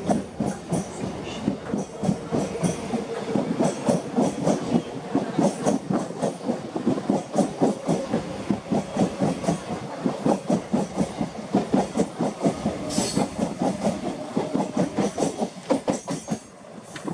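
Mumbai suburban electric multiple-unit (EMU) local train running past close by, its wheels clattering over the rail joints in a quick, steady rhythm. A brief high hiss comes about two-thirds of the way through.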